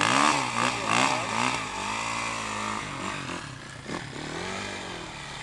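Motocross bike engine revving, its pitch rising and falling several times, loudest in the first second or so.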